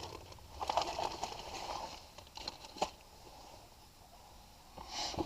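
Rustling and crinkling of items being handled, with a few sharp clicks, one loudest near the middle.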